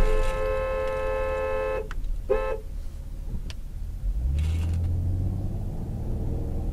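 Car horn blaring in a long blast that cuts off about two seconds in, followed by one short honk. A vehicle's low engine drone then rises and runs on.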